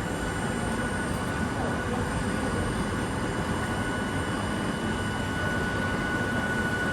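Steady hum of a stationary electric train with a constant high whine running throughout, the sound of its equipment running while it waits at the platform.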